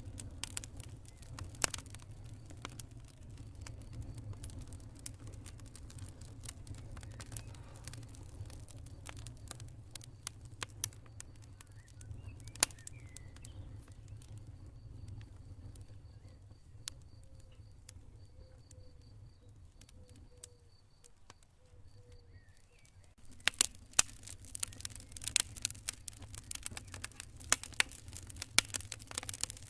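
Campfire crackling: wood snapping and popping in sharp irregular cracks over a low steady rumble of the flames. The crackles thin out through the middle and come thick and fast again near the end.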